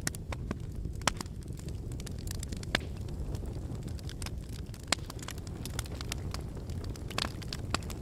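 Fire burning in a brick fireplace, crackling with irregular sharp pops and snaps over a steady low rumble of the flames; a few pops stand out louder, about a second in, near three and five seconds, and around seven seconds.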